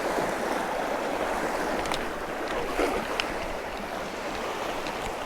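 Creek water running steadily, with a few faint small splashes.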